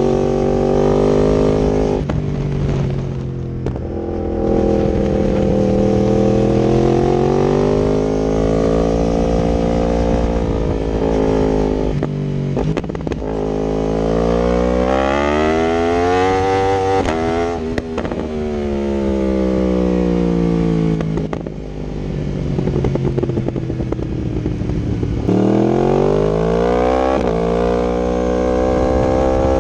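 2019 Yamaha R1 crossplane inline-four through an Akrapovic exhaust with link pipe, riding on the road. It revs hard twice, about halfway through and again near the end; each time the pitch climbs steeply and then drops sharply at a gear change, and in between it falls away as the bike slows.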